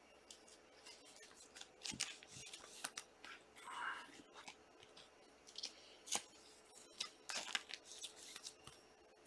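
Trading card packs and cards being handled: scattered short clicks, scrapes and crinkles of foil wrappers and cards, with a longer rustle about four seconds in.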